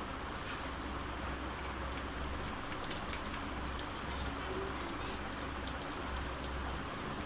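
Faint scattered clicks and light taps of small metal fan-motor parts being handled while a bush is fitted, over a steady low hum and hiss.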